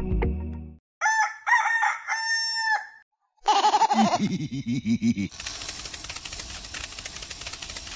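A rooster crowing about a second in, followed by a run of lower, pulsing calls. From about halfway a steady hiss takes over.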